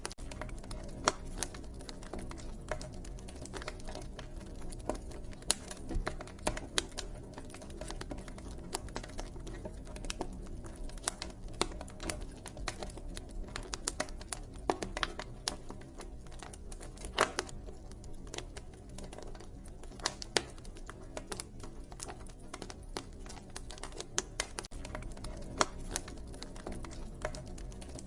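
Wood fire crackling: irregular sharp pops and snaps, several a second, some louder than others, over a low steady rumble.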